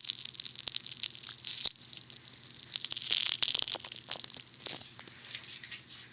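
Funny Foam bath foam squished and rubbed against a binaural dummy head's ear microphone, giving a close, dense crackling of popping bubbles in uneven swells that fades out near the end.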